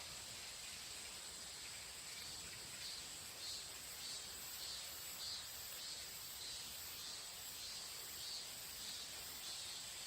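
Insects chirping: a steady high trill with a second insect's chirps repeating about every half second.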